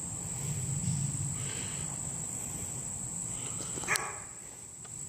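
Insects trilling in one steady, high-pitched tone, with a low rumble underneath and a single sharp click about four seconds in.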